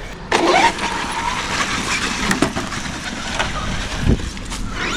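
Traxxas X-Maxx RC monster truck driving, its electric motor whining up in pitch about half a second in and then holding steady over the noise of the tyres on the ground.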